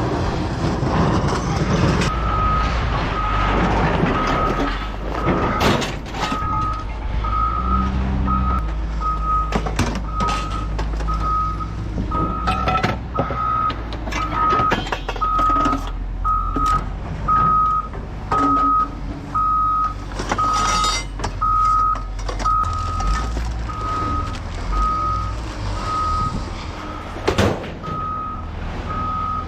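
Reversing alarm on a heavy yard vehicle beeping one steady tone about once a second, over the low running of its diesel engine, with occasional metal clanks.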